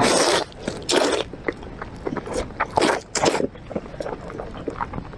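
Close-miked eating of braised pork ribs: loud wet bites and mouth sounds, four stronger ones near the start, about a second in and twice around three seconds, with softer chewing smacks between.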